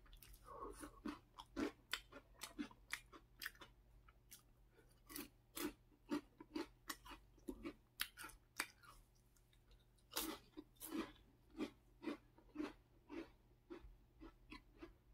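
Close-miked crunchy snacks and crackers being chewed: a steady run of crisp crunches, about two a second.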